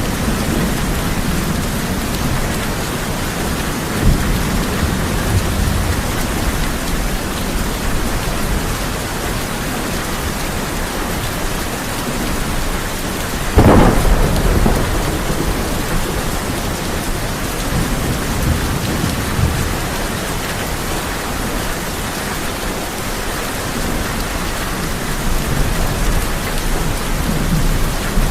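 Heavy rain drumming steadily on a tin roof with low rolling thunder. A sharp thunderclap about halfway through is the loudest moment, followed by a rumble.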